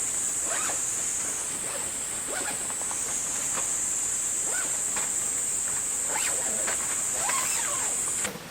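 Steady high-pitched insect chorus with a scatter of short animal calls over it. It cuts off suddenly near the end.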